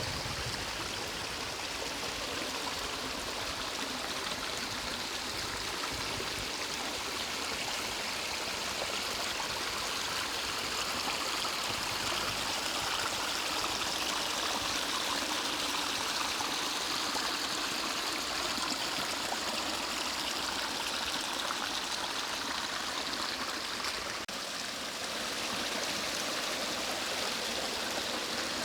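Mountain stream water flowing over rocks, a steady rushing with no let-up.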